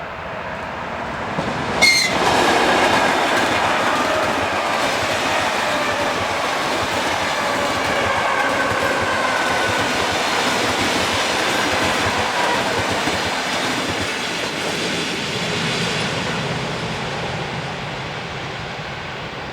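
A train passing close by at speed: a sharp bang about two seconds in as it arrives, then wheels clattering over the rail joints with a whine that falls in pitch as it goes by, slowly fading toward the end.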